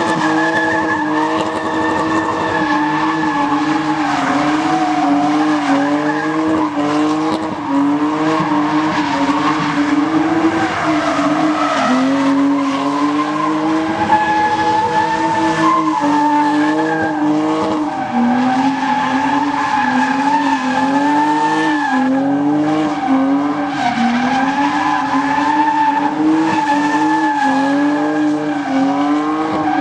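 Vehicle doing a burnout: its engine held at high revs, the pitch repeatedly dipping and climbing back, over steady tyre screech.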